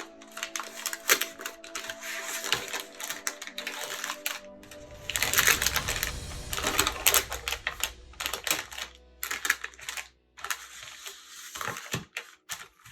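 Rapid, irregular clicking and scraping of kitchen utensils, with a louder, noisier stretch a few seconds in, over soft background music.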